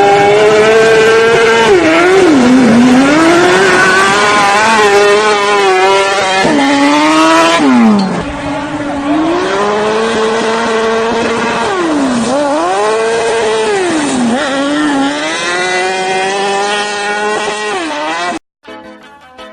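A high-revving vehicle engine, its pitch rising and falling again and again as it is revved and driven hard; the note dips and changes about eight seconds in and cuts off suddenly near the end.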